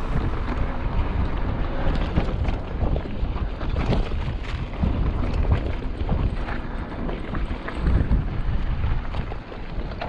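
Wind buffeting the microphone of a moving camera, loud and rumbling, with frequent small knocks and rattles throughout.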